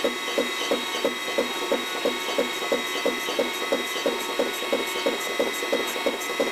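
CNC turning lathe running, with a regular knock about three times a second over a steady high machine whine.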